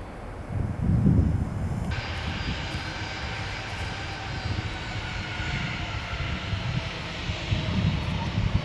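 Wind buffeting the microphone, then, after an abrupt change about two seconds in, the steady noise of a jet airliner's engines with a high whine of several tones that slowly fall in pitch.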